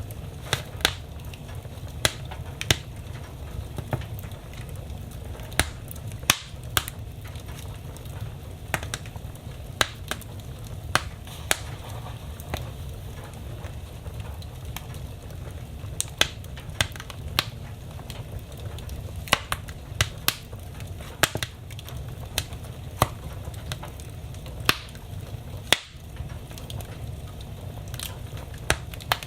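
Wood fire crackling in a fireplace: irregular sharp pops and cracks, a few of them loud, over a low steady rumble.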